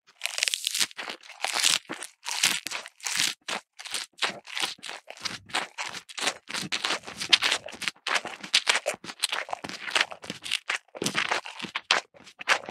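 Dry crackling and rustling of material being handled: short irregular scrapes and crinkles, a few each second, with brief gaps between.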